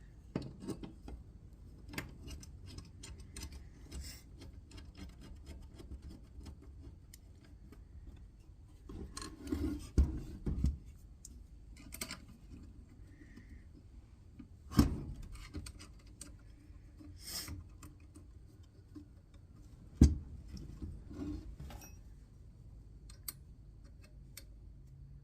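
Scattered small metallic clicks and scrapes of an Allen wrench turning a screw to fasten an AK buttstock to its folding mechanism. A few sharper knocks stand out, about ten, fifteen and twenty seconds in, the last the loudest.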